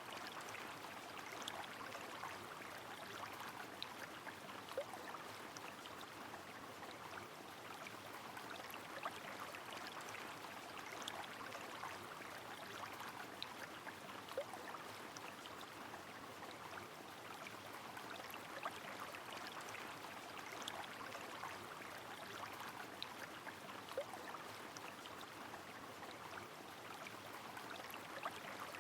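Steady, fairly faint rush of a flowing river with rain falling, scattered sharp drip-like ticks over the even water noise.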